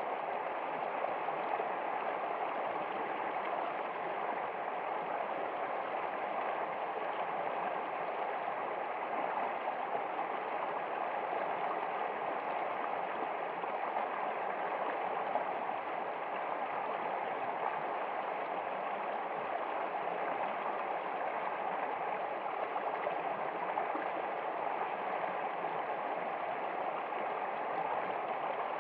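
Running water flowing steadily, an even unbroken rush.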